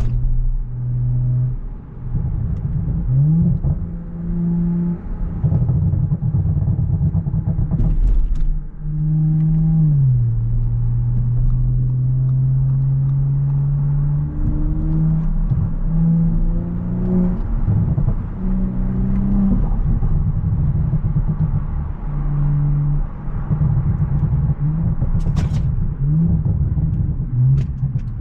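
Audi S5's engine running as the car is driven. Its pitch holds for a few seconds at a time, then steps or glides up and down with throttle and gear changes, over a steady road rumble. A few brief clicks come about eight seconds in and again near the end.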